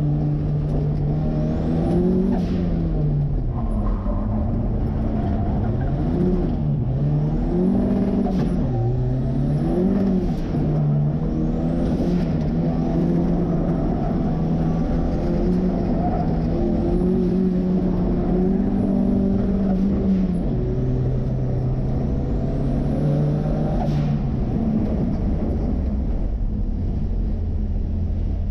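Turbocharged Ford 2.3-litre four-cylinder engine in a 1963 Volvo running hard, its revs rising and falling every couple of seconds as the car is driven through the course. A faint high whistle rises and falls several times over the engine.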